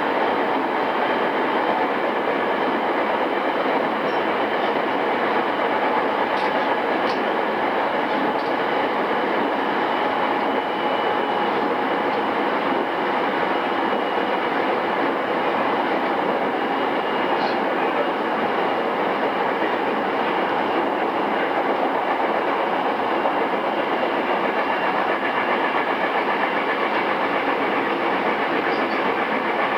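Running noise inside a JR East E217 series EMU motor car (pre-renewal) travelling steadily between stations: continuous wheel-on-rail rumble with a faint steady whine and a few faint clicks, heard through a cassette tape recording.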